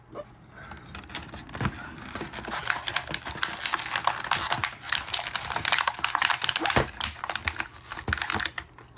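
Plastic toy-car packaging being wrestled open by hand: a dense run of crinkles, clicks and snaps of stiff plastic.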